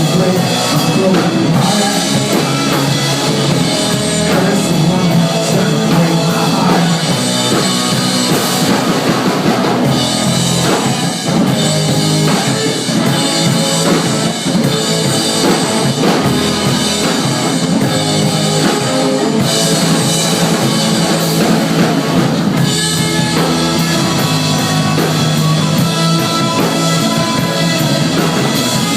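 Live rock band playing an instrumental passage: distorted electric guitars and a full drum kit, loud and dense, with no singing.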